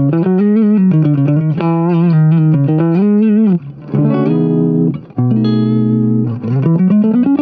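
Electric guitar played through an MXR Dyna Comp compressor pedal: bent single notes, then two struck chords held with long, even sustain, and rising bends near the end.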